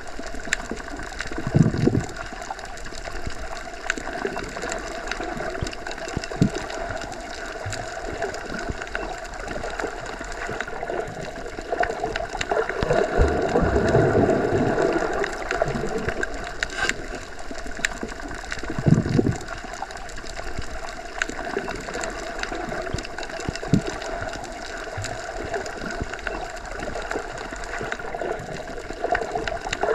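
Underwater ambience: a steady rushing wash with a faint hum, broken now and then by short bubbly gurgles and low thumps, and a slow swell of louder water in the middle.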